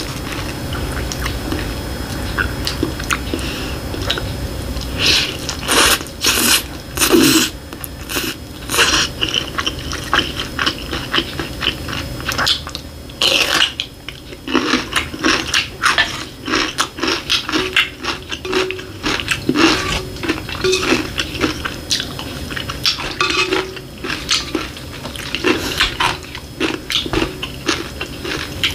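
Close-miked eating: chewing and wet mouth clicks in quick irregular runs as a person eats fried egg over rice, over a faint steady hum.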